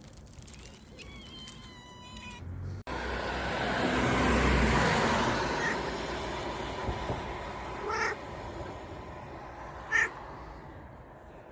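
A cat meowing with short, pitched gliding calls. About three seconds in the sound changes abruptly to a rushing noise that swells and fades, then two short calls come about two seconds apart, the second loud.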